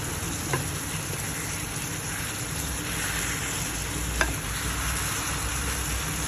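Beef and onions sizzling as they fry in a pan, under the steady hum of a kitchen range hood fan. Two sharp clicks, about half a second in and about four seconds in.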